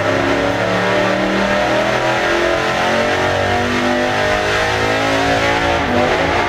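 Supercharged Ford 5.0L Coyote V8, with a Vortech V-3 Si centrifugal supercharger and shorty headers, running hard at high rpm under load on an engine dyno during a power pull.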